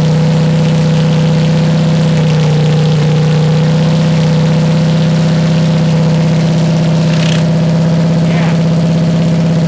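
Kohler KT17 twin-cylinder garden tractor engine running steadily on its own, a worn-out engine with blow-by.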